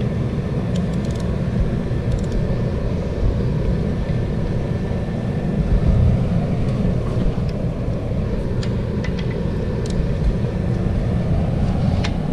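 Steady low rumble with a few faint, sharp clicks and taps scattered through it, from hand tools worked on the bolts of a tractor's planetary gear set.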